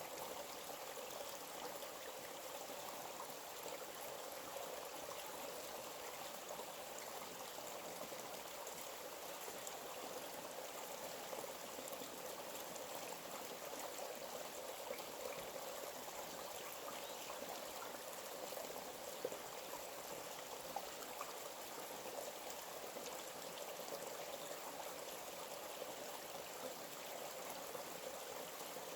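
A small stream flowing and trickling steadily, with a few brief louder ticks near the middle.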